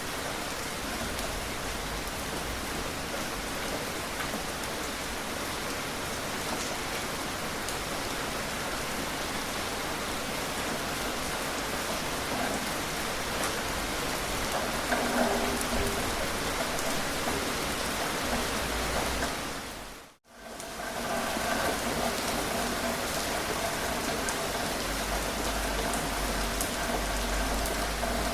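Steady rain falling, an even hiss of drops. About twenty seconds in it dips briefly to silence and comes straight back, like a loop seam in the recording. After that a few faint steady tones sit under the rain.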